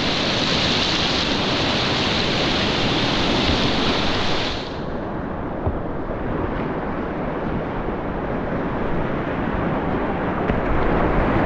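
Rushing whitewater of a mountain river, a steady loud hiss. About halfway through, the higher part of the hiss drops away suddenly and the water sounds duller.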